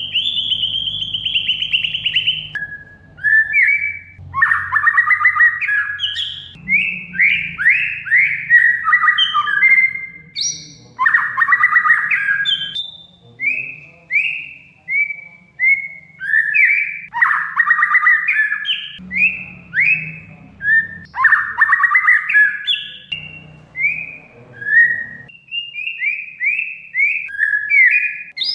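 Oriental magpie-robin (kacer) singing continuously: a rapid string of short downslurred whistled notes, broken by several harsh, rasping chatter bursts. A faint low hum runs underneath.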